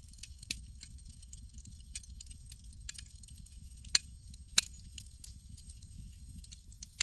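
Campfire crackling: scattered sharp pops and snaps over a steady low rumble, with two louder pops about four seconds in.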